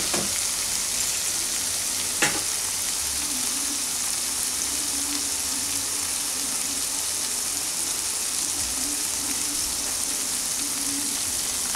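Soya chunks and vegetables sizzling steadily in sauce in a nonstick frying pan over a high flame. Two short knocks of the wooden spatula against the pan come near the start and about two seconds in.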